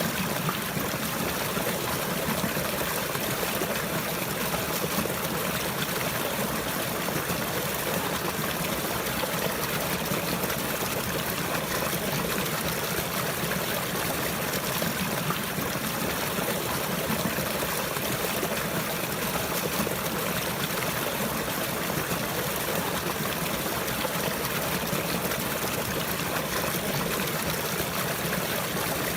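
Running water from a stream trickling steadily, an even unbroken rush that does not change.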